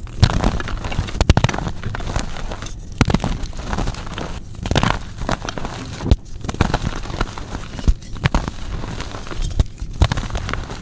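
Blocks of gym chalk being crushed, a dense run of crackling and crunching with many small sharp snaps and brief pauses between squeezes.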